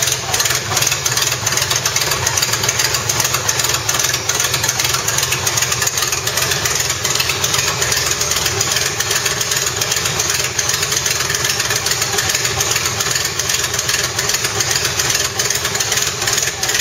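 Volvo 240's four-cylinder engine idling steadily, heard close up in the open engine bay just after being brought back to life.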